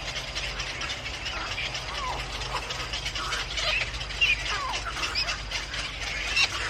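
Birds chirping in many short, quick calls, with two sharper, louder calls about four and six seconds in, over a steady low hum.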